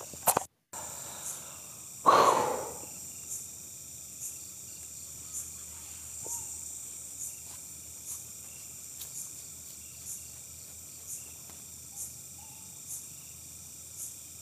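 Crickets or other night insects chirping steadily, with faint pulses about once a second. About two seconds in there is one short, loud, breathy sound like a sharp exhale or sigh.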